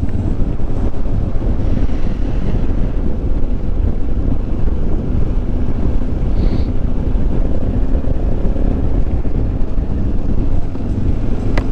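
Wind rushing over the microphone of a motorcycle travelling at road speed, a steady loud roar with the engine's drone faintly underneath.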